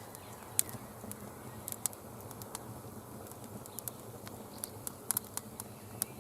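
Wood campfire crackling: irregular sharp snaps and pops over a faint steady hiss.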